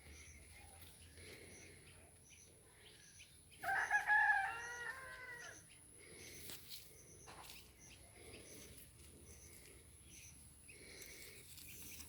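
A rooster crowing once, a loud call of about two seconds starting about four seconds in, over faint high chirping.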